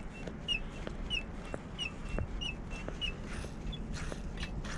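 A small bird chirping in short, slightly falling notes about twice a second, with a few faint clicks of handling.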